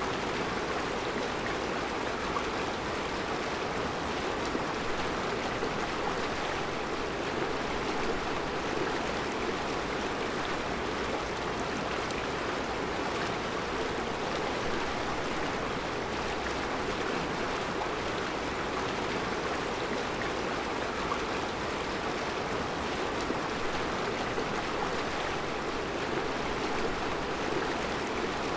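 Mountain river flowing steadily over round rocks in a rocky riverbed: an even, unbroken rushing of water.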